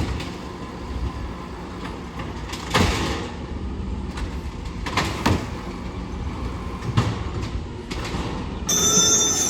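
Garbage truck at work: a running engine under three sharp metallic bangs about two seconds apart, then a high squeal near the end.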